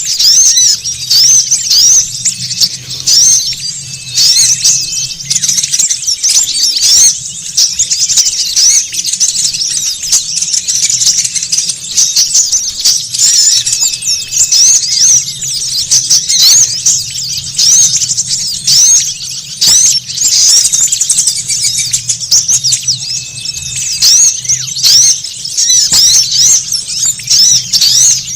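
Dense, continuous chattering of many small birds, rapid high chirps and twitters overlapping without pause, over a faint steady low hum. A bird-trapper's lure recording of noisy small birds, played to draw wild small birds in.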